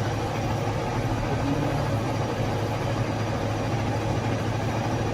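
A motor or engine running steadily at constant speed, a low hum under an even hiss.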